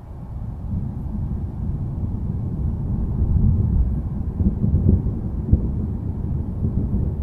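Low rolling rumble of thunder, swelling about a second in and holding loud.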